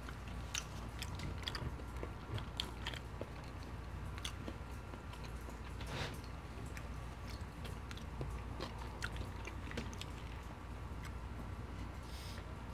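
Close-miked chewing of poutine (gravy-soaked fries and cheese curds), with scattered wet mouth clicks and smacks over a low steady hum. Near the end come a few sips from a plastic drink bottle.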